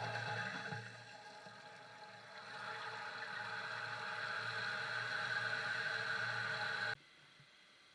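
Toilet flushing with a newly fitted tank lever: a steady rush of water, louder again in its second half, that stops abruptly about seven seconds in.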